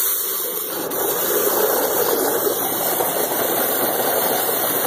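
Water running steadily, a continuous hiss.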